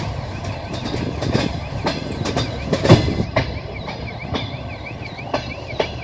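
Moving passenger train: the wheels click and knock over the rail joints over a steady rumble, with one sharp knock about three seconds in. From about halfway a high warbling tone rises and falls about three times a second.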